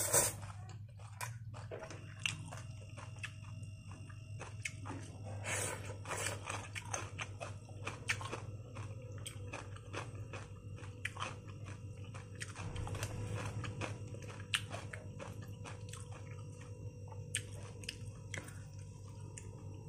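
A person eating stir-fried egg noodles with chopsticks close to the microphone: chewing, with many small irregular clicks and smacks.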